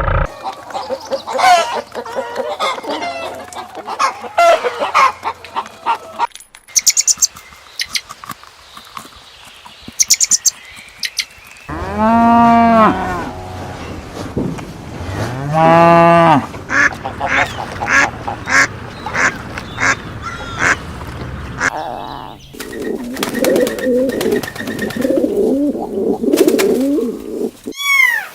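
Farm animals calling in a string of short clips: poultry squawking and chattering, two long drawn-out calls from a larger animal about halfway through, and a burst of choppy cackling or honking near the end.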